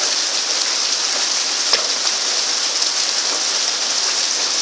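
Heavy rain falling steadily, a dense even hiss, with a single sharp tap about a second and a half in.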